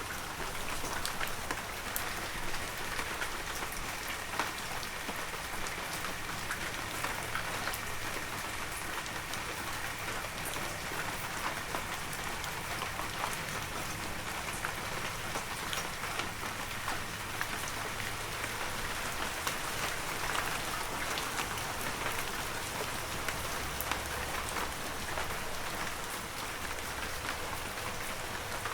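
Heavy rain falling steadily, a dense hiss with many close drops pattering and ticking on surfaces.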